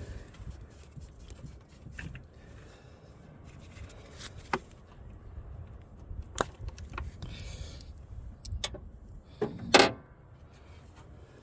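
1993 Ford Ranger 3.0 V6 idling with a low, steady rumble while it has a misfire on one cylinder that is being tracked down. A few sharp clicks and a louder clatter just before the end come from handling parts around the engine.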